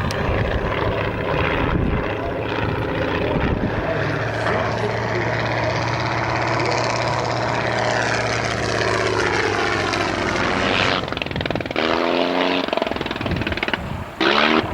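Engine of a WWI fighter replica in flight, droning steadily, then falling in pitch as the aircraft passes by about eleven seconds in. Another fly-by comes near the end.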